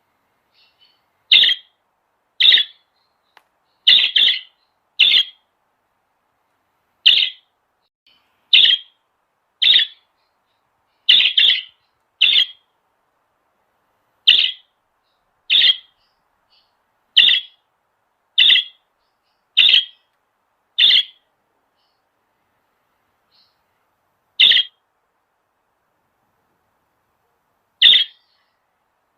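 A bird giving short, sharp calls one at a time, repeated every second or two, with longer gaps near the end.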